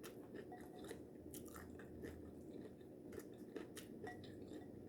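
Faint chewing of taco salad, with small scattered crunches and mouth clicks.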